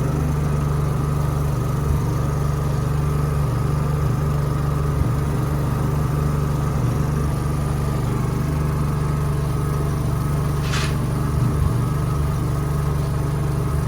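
Generator engine running steadily, with a brief hiss about eleven seconds in.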